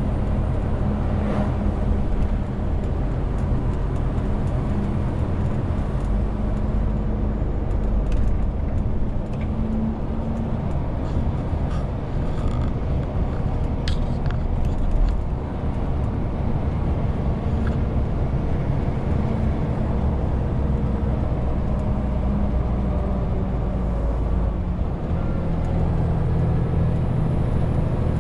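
Renault T520 truck's six-cylinder diesel engine running steadily, carrying a 40-tonne load. Its engine note changes a couple of times, about halfway through and again near the end, over steady road noise.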